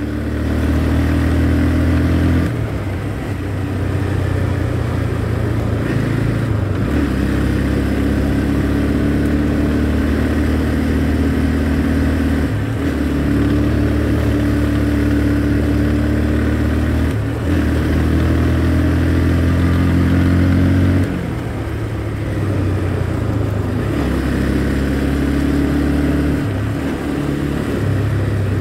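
Motorcycle engine running while riding, its note holding steady for a few seconds at a time and then shifting to a new pitch.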